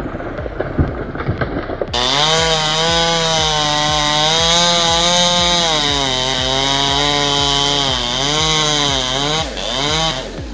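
Chainsaw running at high revs, its pitch dipping and rising as it works through wood. It starts abruptly about two seconds in and cuts off near the end.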